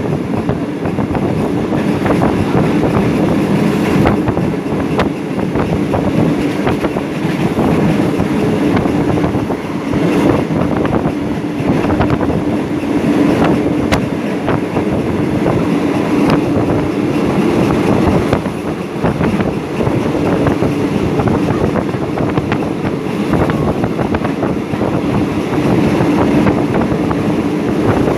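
Moving passenger train heard from inside a coach: a steady rumble of wheels on the rails with rushing air, and irregular sharp clicks.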